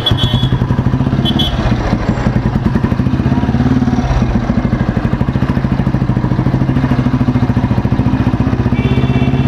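1970 Royal Enfield Bullet 350's single-cylinder four-stroke engine running on the road, with an even, rapid beat of exhaust pulses.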